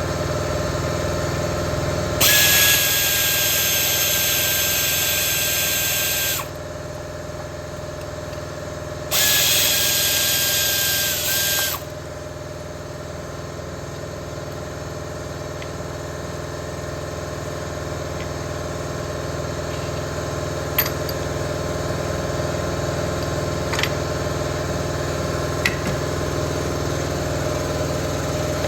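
Handheld power tool run in two spells, about four seconds and then two and a half seconds, with a steady high whine over a hiss, above a steady mechanical hum. A few light clicks follow near the end.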